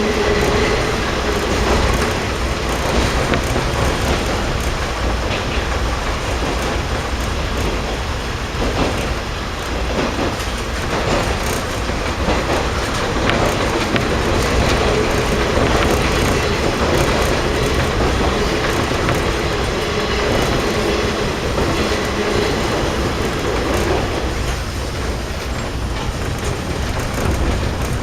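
KiHa 52 diesel railcar running along the line, heard from inside the car: the steady noise of its DMH17 diesel engines and wheels on the rails, with occasional clicks.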